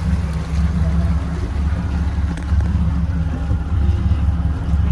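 A cruise boat's engine running steadily underway: a low, even drone.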